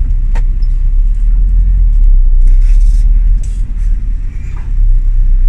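Classic Mini engine with points ignition idling steadily, warming up after a hard start from three months unused in the cold. A sharp click about half a second in.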